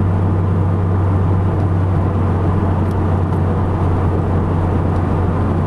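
Car engine and exhaust running at a steady pitch while cruising, with road and tyre noise, heard from inside the cabin.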